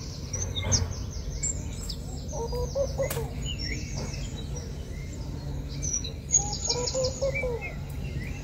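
Birds calling in a tree: quick runs of high, rapidly repeated chirps near the start and again about six seconds in, and lower, warbling calls about two and a half and seven seconds in, over a steady low background hum.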